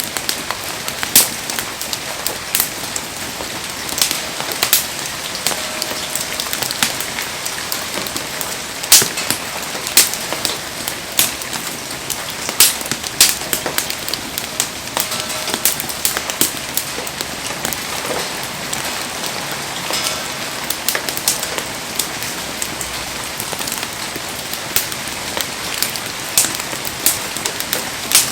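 Heavy rain falling steadily over a campfire, a constant hiss, with the fire crackling in irregular sharp pops throughout.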